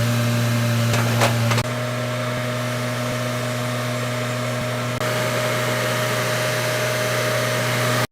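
A steady machine drone with a constant low hum and a fainter higher tone, dropping in level abruptly about a second and a half in and rising again about five seconds in, then cutting off.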